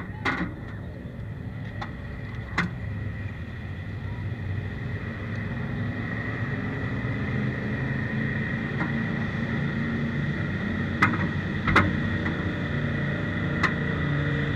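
The 1932 Ford Super Modified race car's 300 cubic inch straight-six engine runs steadily and slowly grows louder, with a few sharp clacks over it.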